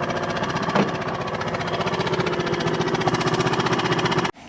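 A jon boat's outboard motor running steadily at a constant speed, its rapid firing pulses even throughout; the sound cuts off abruptly near the end.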